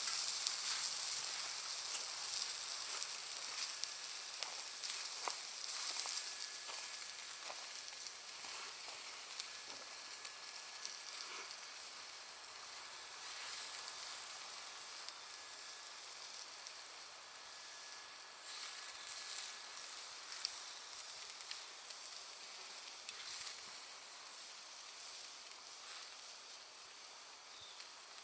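Charcoal and wood fire hissing steadily with scattered sharp crackles and pops from the burning cut charcoal. A faint, thin, steady whistle runs through the middle, and the fire grows slowly quieter.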